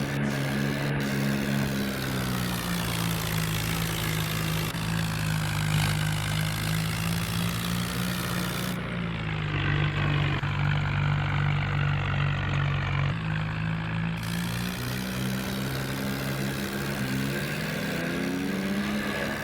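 Swaraj tractor's diesel engine running and revving, its pitch slowly rising and falling, with a few sudden changes in tone.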